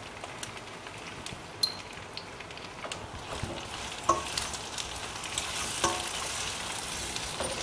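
Raw mango pieces and green chillies sizzling in oil in a stainless steel pan while a wooden spoon stirs them. The sizzle grows louder from about halfway through, with a few light knocks.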